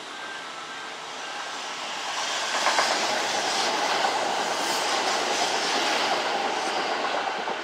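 Kintetsu electric train passing through the station, growing louder over the first few seconds and then running by steadily, wheels clacking over the rail joints.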